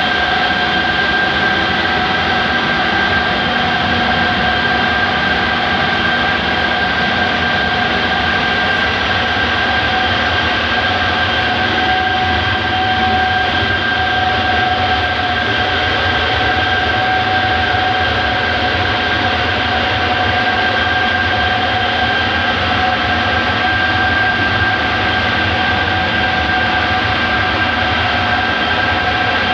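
Two-stage centrifugal compressor running steadily: a loud, even rush of noise with a constant high whine on top.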